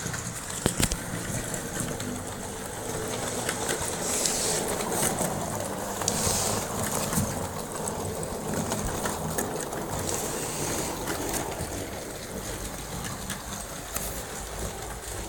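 Plastic model electric locomotive (an Arii EF58 kit converted to an EF15) driven by a small 280 motor on two AA batteries, running steadily while hauling a freight train: an even motor and gear whir with scattered clicks.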